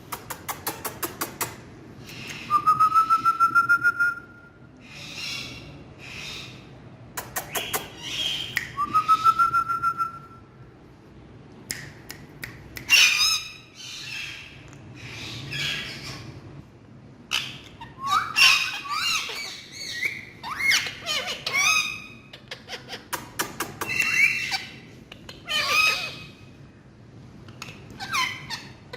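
Pet parrot vocalising: a quick rattle of clicks, two rising whistles, then a string of short, shifting calls and chatter.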